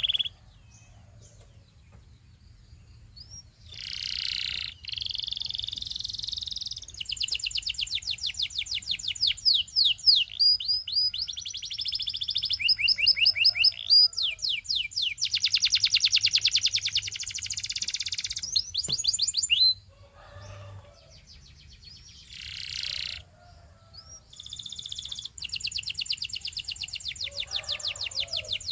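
Canary song: phrases of rapid high trills made of repeated notes, fast down-sweeping notes and buzzy rolls, with short pauses between phrases.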